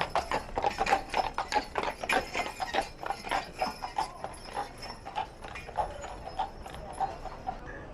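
Horse hooves clopping on pavement at a walk, several clacks a second, fading after about five seconds as the horse moves away.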